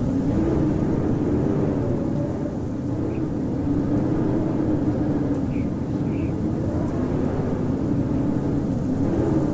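Howling winter wind: a steady rush with a low moaning tone that slowly wavers up and down in pitch, and a few faint short high chirps in the middle.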